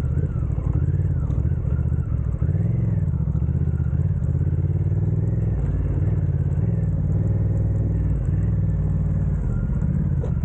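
Honda Africa Twin's parallel-twin engine running at low speed on a dirt trail, its revs rising and falling.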